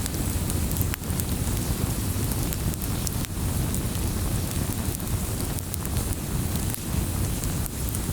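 Wood fire crackling in a fireplace: a steady low rumble of flames with scattered sharp pops and snaps from the burning logs.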